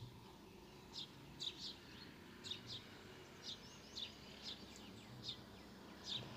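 Faint, repeated short chirps of a small bird, about two a second, over a low background hum.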